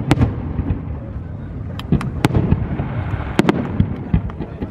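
Aerial fireworks bursting: a run of sharp bangs over a continuous low rumble, with single reports about two seconds in and a tight cluster of them a little after three seconds.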